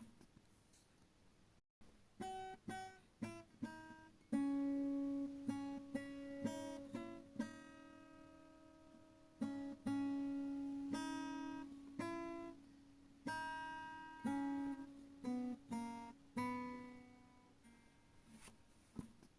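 Background music: acoustic guitar, picked and strummed notes that ring out and fade.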